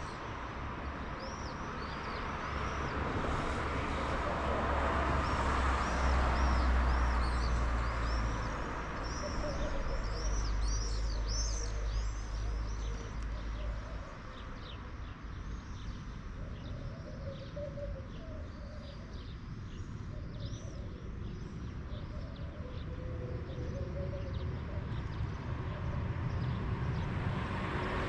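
Small birds chirping over and over, busiest in the first half, over a low steady rumble that stops about halfway through. A rushing noise, like an approaching vehicle, swells near the end.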